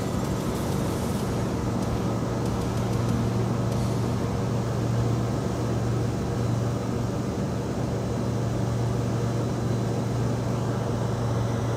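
Steady drone of a KFA Safari light aircraft's engine and propeller in flight.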